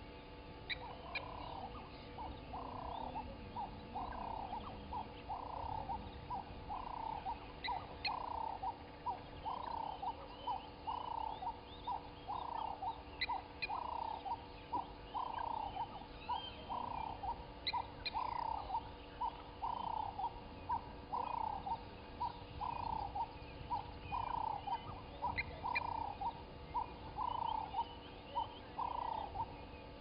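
A bird calling in a long, steady series: a short two-part call repeated about every second and a quarter. Faint chirps of other birds sound over it.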